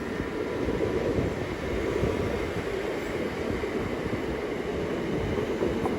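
A c2c Class 357 electric multiple unit running into the platform: a steady rumble of wheels on rails and running gear.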